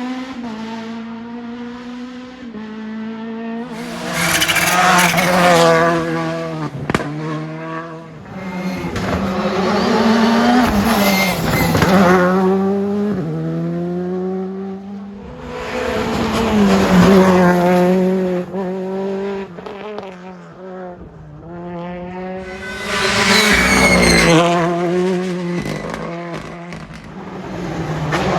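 Rally cars at speed on a special stage, engines revving hard and dropping back through gear changes, with four loud surges as they pass and a few sharp cracks about seven seconds in.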